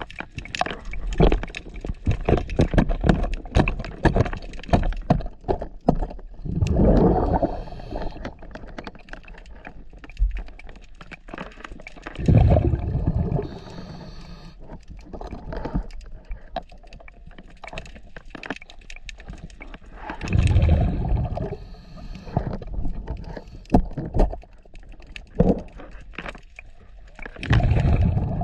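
A scuba diver breathing underwater: exhaled bubbles from the regulator burst out four times, about every seven seconds. Many sharp clicks and knocks fall between the breaths.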